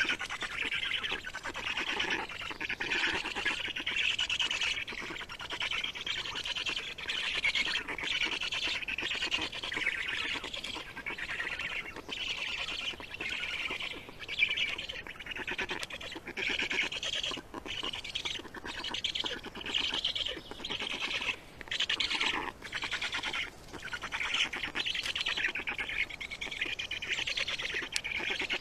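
Small birds calling continuously, a dense chatter of squawking calls with many brief breaks.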